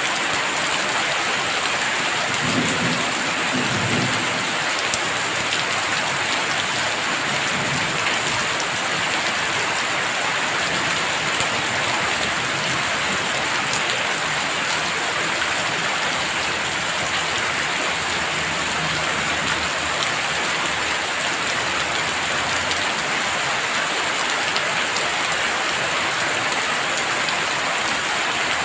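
Heavy rain falling steadily, with a low rumble of thunder about three seconds in and weaker low rumbles later on.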